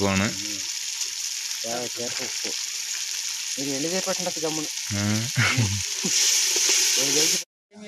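Tomato masala frying in oil in an aluminium pot over a wood fire, with a steady sizzle. From about six seconds in a ladle stirs it and the sizzle gets louder, then the sound cuts off suddenly.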